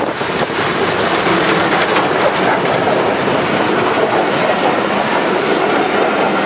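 Steam-hauled passenger train, headed by the 1945 Merchant Navy class locomotive British India Line, passing close by. The engine goes by in the first second, and the noise builds. Then the coaches roll past with a steady, loud sound of wheels running on the rails.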